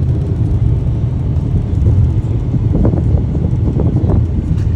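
Steady low rumble of a car driving on the road, with wind buffeting the microphone.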